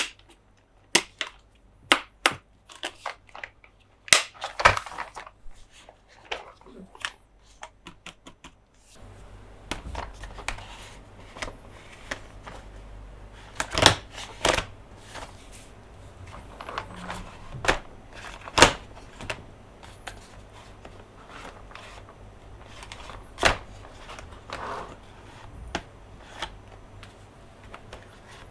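Hard plastic toy pieces clicking and knocking as they are handled and tapped close to the microphone: irregular sharp clicks, some much louder than others. A faint low hum comes in about nine seconds in.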